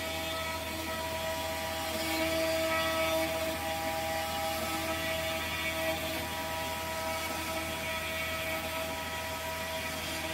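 CNC mill running, its spindle giving a steady whine of several tones over the rushing noise of the cutter working through wood. The sound swells a little between about two and three and a half seconds in.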